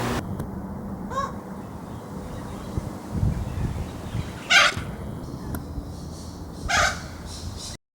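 Long-billed corella giving harsh, screeching calls: a faint one about a second in, then two loud ones further on.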